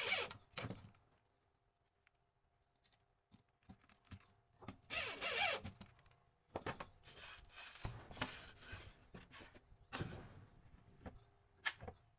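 Several short scraping and rubbing sounds of hand work with wood and tools, with a few sharp clicks, separated by quiet gaps.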